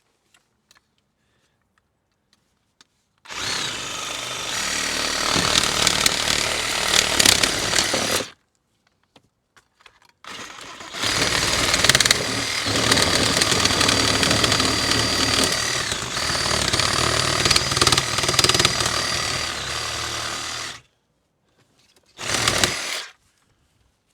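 Handheld power saw cutting through the hot tub's plastic plumbing pipe, in three runs: one of about five seconds, a longer one of about ten seconds, and a brief burst near the end, with pauses between.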